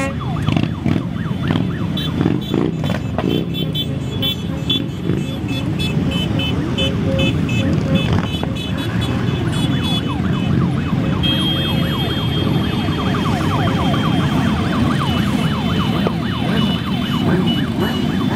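A mass of motorcycles riding past, many engines overlapping and rising and falling in pitch as riders rev. Runs of short repeated high-pitched beeping tones sound over them.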